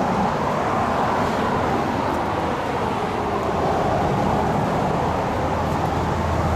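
Big rig truck's diesel engine idling steadily while its brakes are held on, a continuous even rumble with a low hum.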